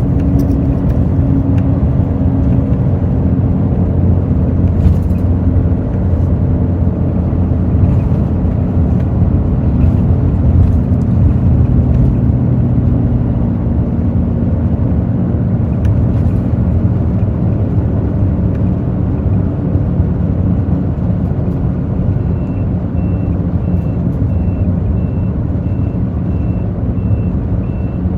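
Hino J08E-VD six-cylinder diesel engine of a Hino RN8JSVU-SSF intercity bus running under way, its note slowly falling. About three-quarters of the way in, a high electronic beep starts repeating steadily.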